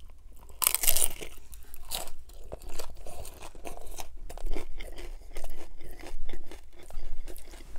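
A crunching bite into a hard-shell taco topped with crispy fried chicken skin about a second in, followed by crunchy chewing at roughly one to two crunches a second.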